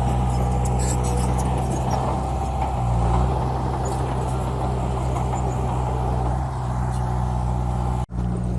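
Bulldozer's diesel engine running steadily, its low hum swelling briefly about three seconds in. A brief dropout near the end cuts the sound for an instant.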